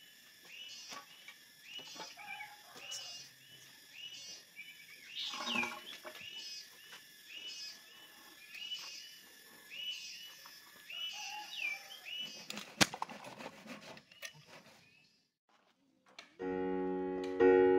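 A bird calling over and over, a short chirp repeated a little less than twice a second over faint outdoor hiss, with a single sharp click about two-thirds of the way through. Near the end, piano music starts.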